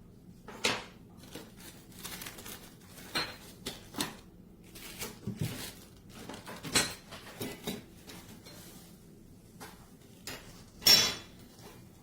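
Hard objects clinking and knocking together as they are handled, in irregular single strikes with a loud clatter near the end. There is no steady motor sound.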